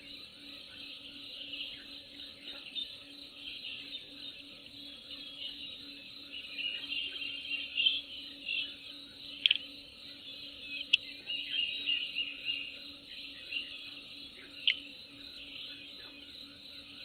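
Nature ambience of birds chirping and trilling over a steady high insect buzz. A few loud, sharp chirps stand out in the second half.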